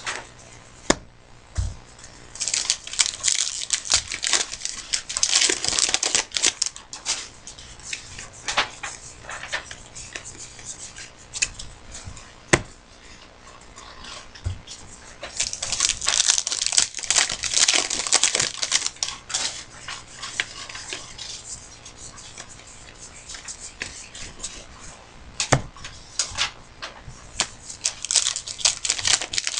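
Trading card pack wrappers being torn open and crinkled, with cards being handled and shuffled, in three long stretches of rustling with sharp clicks.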